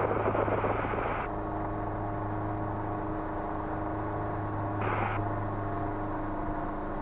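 Schweizer 300C helicopter's piston engine and rotor drone in a hover, a steady hum with several held tones. A broad hiss over it cuts off about a second in and comes back briefly about five seconds in.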